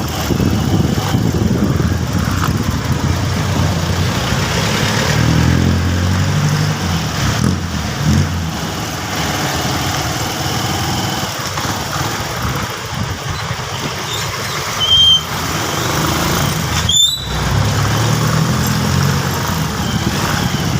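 Motorcycle running on the road, its engine note rising and falling under steady road and wind noise, with a couple of brief high squeaks about two-thirds of the way in.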